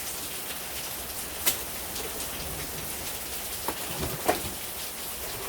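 Heavy rain falling steadily, an even hiss. A few sharp clicks or taps stand out, one about a second and a half in and two close together near four seconds.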